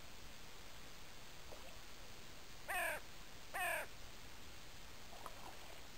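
A bird gives two loud, short calls about a second apart near the middle, with a few fainter calls before and after over a steady background hiss.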